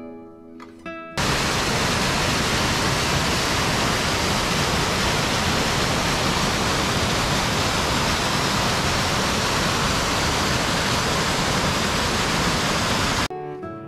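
Steady loud rush of a waterfall's falling water, cutting in abruptly about a second in and cutting off just as abruptly near the end. Plucked guitar music plays on either side of it.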